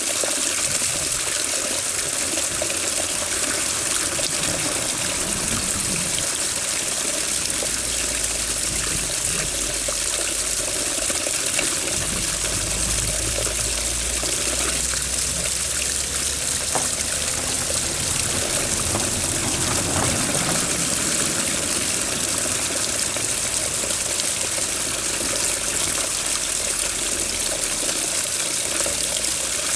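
Water running and trickling steadily, an even rushing splash with no breaks. A faint low rumble lies underneath for much of it.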